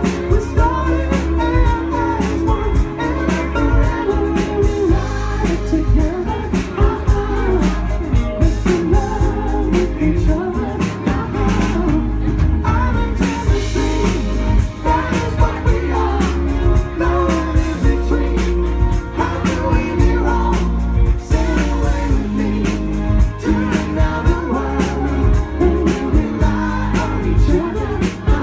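Live band playing a soft-rock song, with a lead singer over a full band and a steady beat.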